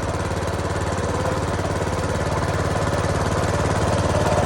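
Small 5.5-horsepower engine driving an inflatable boat, running steadily with rapid, even firing pulses. It grows slightly louder near the end.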